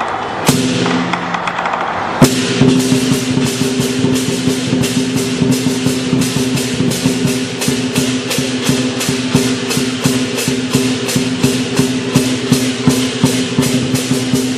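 Lion dance percussion: drum, cymbals and gong playing. After two loud crashes, the cymbals settle into a fast, even beat of about three strikes a second over a steady ringing.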